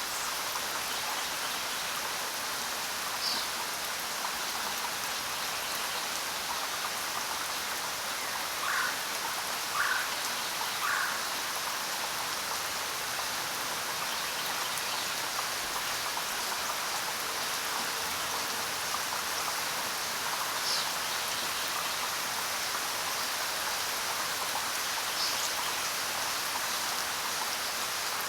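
Steady rain falling, an even hiss of drops on surfaces. A few brief chirps sound over it, three in quick succession about nine seconds in.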